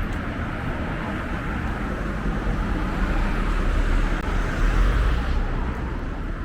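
Street traffic: a motor vehicle passing with a steady rumble of engine and tyre noise, loudest about five seconds in.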